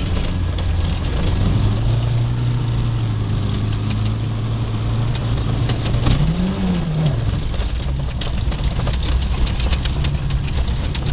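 VAZ 2108 four-cylinder engine running steadily, with one quick rise and fall in revs about six seconds in.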